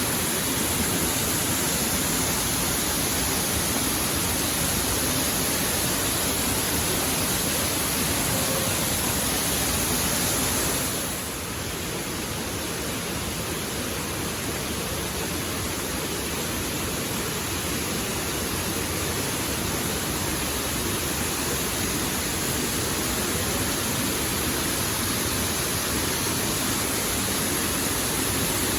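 Waterfall: a steady rush of falling water. It drops a little and turns duller about eleven seconds in, then slowly builds back.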